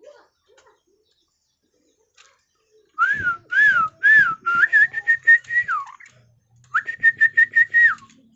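Loud, clear whistling: three short rising-and-falling notes, then a quivering held note that drops at its end, and after a brief pause a second quivering held note.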